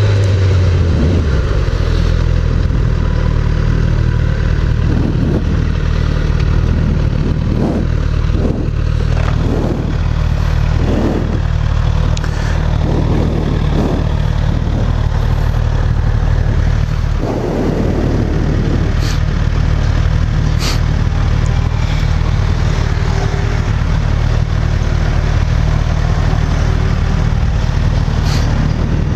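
Sport motorcycle engine heard while riding, its pitch dropping as the bike eases off at the start and then holding steady at cruise, with wind rushing past.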